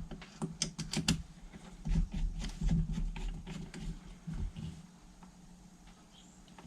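Small sharp clicks and taps of metal carburettor parts and a small screwdriver as a pilot jet is fitted and screwed into a Keihin carburettor body. The clicks come thick and fast over the first three seconds or so, then thin out and grow fainter.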